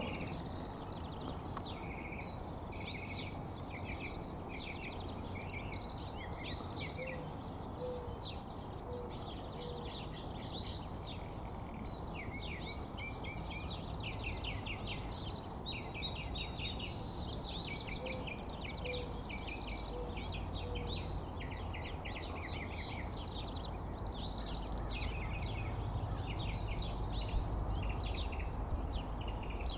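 Mockingbirds and other birds singing, a continuous tangle of quick chirps and trills over a steady low background rumble. Twice, a short run of soft low notes repeats about once a second.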